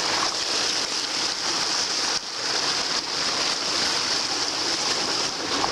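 Swollen creek rushing past, a steady hiss of fast-flowing water.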